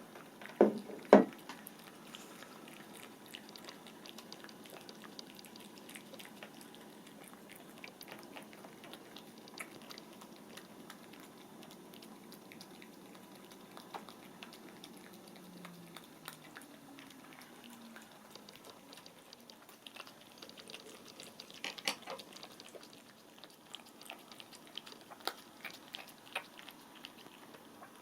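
A cat eating soft wet food and lickable paste from a dish, with small, scattered licking and chewing clicks that come in a closer cluster in the second half. Two short, louder sounds come about a second in.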